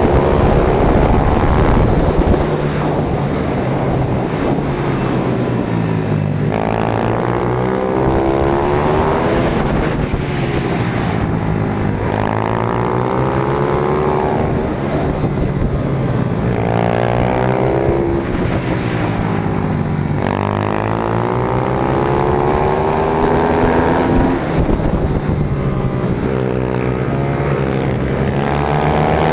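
Pit bike engine heard on board at speed, repeatedly revving up through the gears and dropping back, about five rising sweeps in pitch, as it accelerates out of corners and slows into them. A steady rush of wind noise runs under it.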